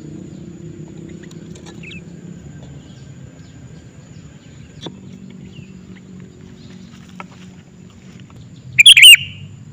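Sooty-headed bulbul (kutilang) giving one loud, brief burst of quick chirping notes near the end, after a few faint chirps over a low steady hum.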